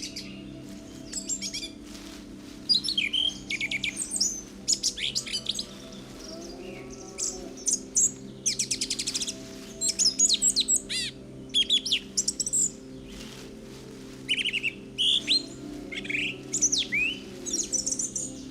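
Songbirds singing, many quick chirps and trills in short repeated phrases, over a low steady hum.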